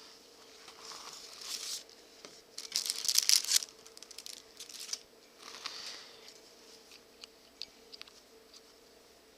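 Rustling and rasping from leather being handled while it is hand-sewn, loudest about three seconds in, then a few light clicks.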